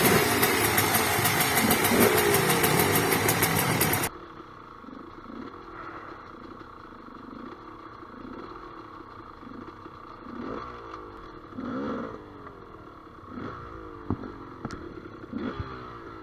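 Two-stroke enduro motorcycle engine revving loudly up close, cutting off abruptly about four seconds in. After that, fainter dirt-bike engines rev on and off at a distance.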